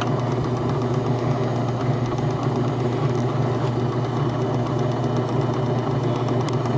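Small lathe motor running with a steady hum, turning a soft bronze plug while a cutting tool is fed in lightly to take a little off.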